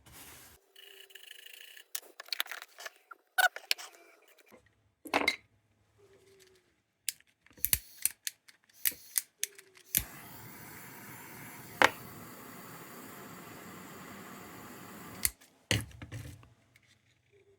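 Sharp clicks and knocks from handling the tin lantern and tools, then a steady hiss for about five seconds, starting about ten seconds in and cutting off suddenly, with one sharp click in the middle of it.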